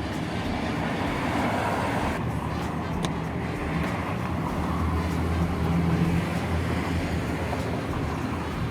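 Abra water-taxi's engine running steadily, a low hum that swells a little about five to six seconds in.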